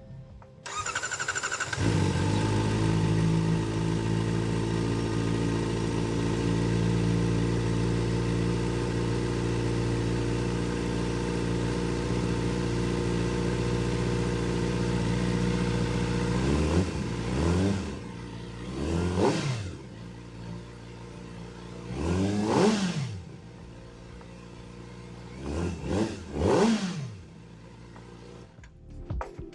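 Kawasaki ZX-4RR's inline-four engine breathing through a Trick Star Ikazuchi slip-on exhaust with the dB killer fitted. It starts about a second in and idles steadily, then from about halfway through it is revved in about five quick blips, each rising and falling back to idle.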